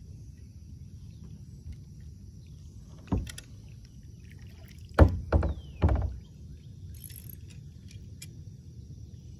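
Knocks and thumps on a kayak hull: one about three seconds in, then three close together about two seconds later, the loudest of them around five seconds in. Under them runs a steady low rumble with a thin steady high-pitched tone.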